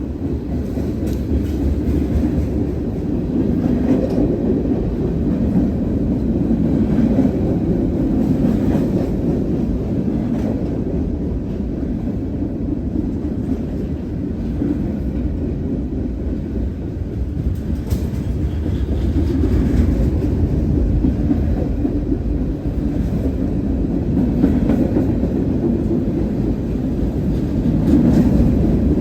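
Freight train rolling past: a steady rumble with the clack of wheels over rail joints.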